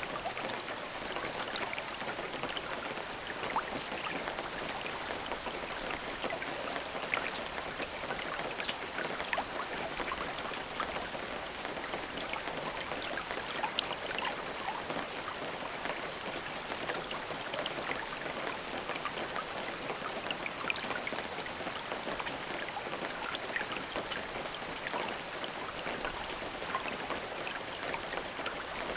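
Steady rain falling, an even patter with many small, distinct drop ticks.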